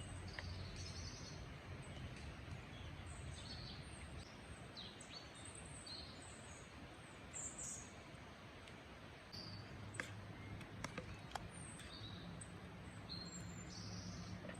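Small birds chirping and calling over a faint steady outdoor background, with a few sharp clicks about ten seconds in.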